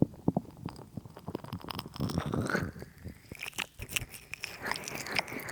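Hands heavy with massage oil rubbing over a binaural microphone, giving wet, sticky squelching and crackling: too much oil has been put on. Near the end it settles into smoother, even rubbing strokes.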